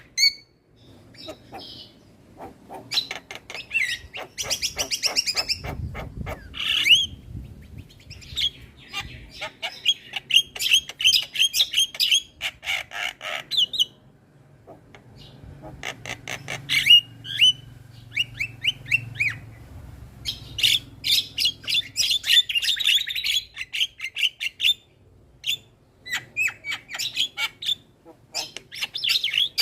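Javan myna (jalak kebo) singing in bursts of fast chattering phrases of short repeated notes and whistles, with brief pauses between the bursts.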